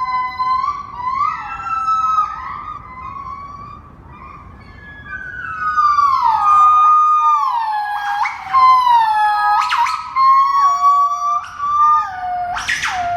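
Gibbon calling: a string of pitched whooping hoots that slide up and down. About halfway through it grows louder, with sharp rising sweeps of the voice that come again a few times near the end.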